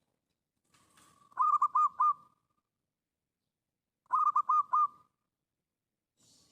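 A bird calling twice, each call a quick run of about four short, clear notes at one pitch.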